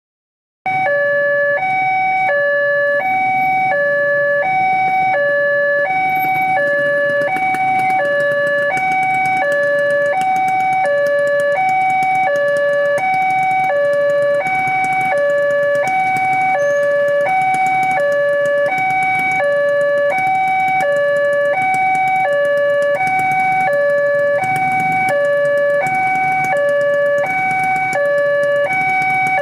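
Railway level-crossing warning alarm sounding a steady two-tone electronic alternation, a higher and a lower note each about half a second long, starting about a second in. It signals that the crossing barriers are closing for an approaching train.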